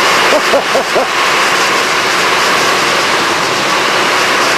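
Torrential downpour: heavy rain falling steadily in a loud, dense hiss.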